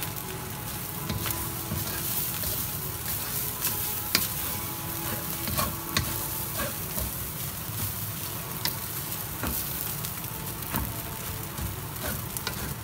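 Beef fried rice sizzling in a hot stainless steel pan while a wooden spatula stirs and scrapes it, with scattered sharp clicks as the spatula knocks against the pan.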